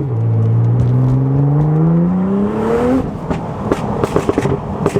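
Straight-piped Nissan GT-R R35's twin-turbo V6 pulling hard, its pitch rising steadily for about three seconds after a gear change. It then backs off the throttle, and the exhaust crackles rapidly on the overrun.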